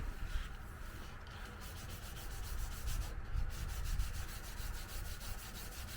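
Sandpaper rubbed by hand over a car's painted body panel in quick, even back-and-forth strokes, knocking down pits and flattening the paint ahead of primer.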